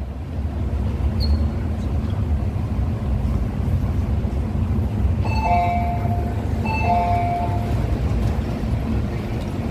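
MTR Tung Chung Line CAF train standing at the platform, its equipment giving a steady low rumble. About five seconds in a chime sounds twice, a second and a half apart, as the train and platform screen doors open.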